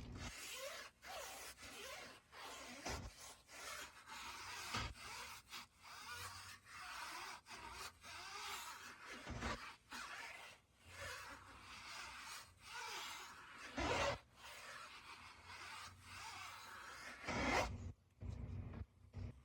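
Hand scrubbing of a surface in repeated rasping strokes of about half a second to a second each, with short pauses between them and two louder strokes late on.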